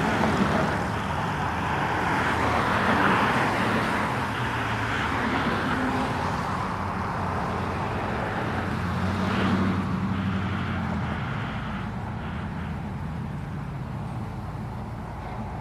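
Car engines running as vehicles drive past, swelling about three seconds in and again around ten seconds, then fading away.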